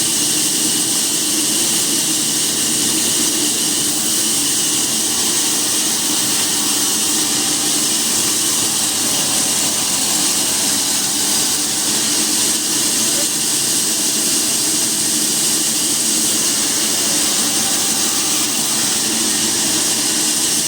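A machine running steadily with a loud, even hiss that does not change.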